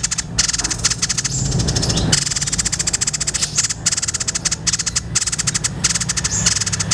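Songbird's rapid rattling chatter: a fast, continuous run of clicks with brief breaks, over a low steady hum.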